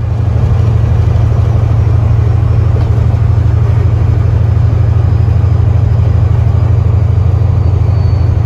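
Semi-truck diesel engine running: a loud, steady low drone with a fast, even pulse.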